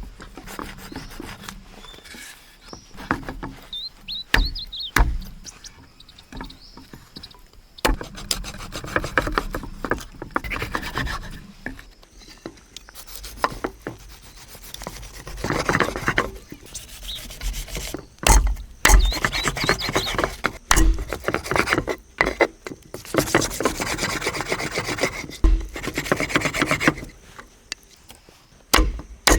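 Wood being scraped by hand with a tool, in bouts of rapid rasping strokes a few seconds long, with a few knocks in between.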